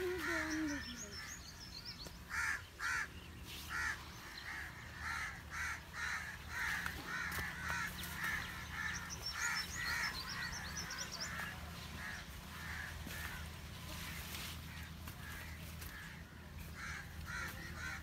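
A bird calling over and over in short calls, about two a second, for about ten seconds and again briefly near the end, with the high twittering of a smaller bird in between. Cotton plants rustle as people push through them.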